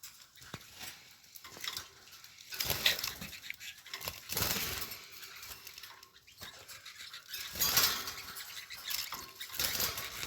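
Irregular rustling and scuffling in several bursts a few seconds apart.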